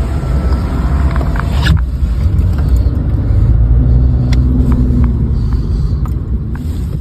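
A motor vehicle on the move: a steady low rumble of engine and road noise, with a few faint clicks.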